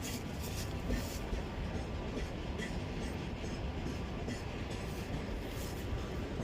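Long train of railway wagons rolling past: a steady low rumble with scattered clicks from the wheels.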